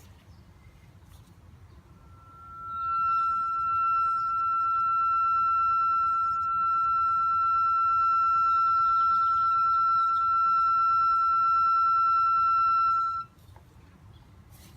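Steady high-pitched squeal from the 2013 Subaru Impreza's rear brake rotor turning with the pads and caliper removed, which leaves only the parking brake inside the rotor as its cause. One unbroken tone starts about two seconds in and cuts off suddenly about eleven seconds later.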